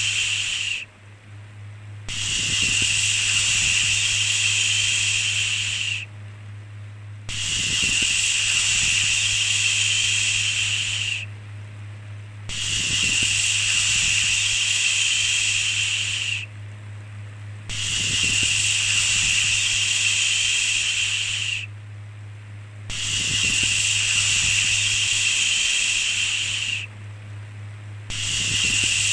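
Looped "shhh" shushing white noise: a long hissing shush of about four seconds, a pause of about a second, then the next, repeating about every five seconds. A steady low hum runs underneath.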